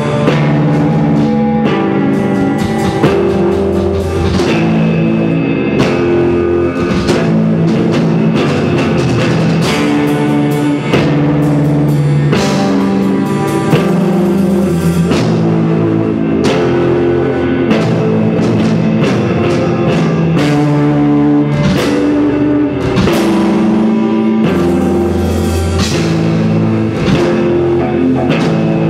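Rock band playing: guitar and drum kit, loud and steady.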